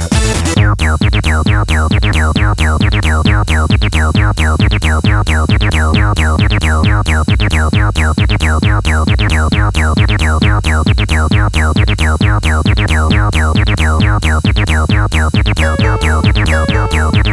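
Electronic techno track with a steady pulsing synth bass and a fast run of repeating synth notes that each sweep down in pitch. A bright high layer drops out just under a second in.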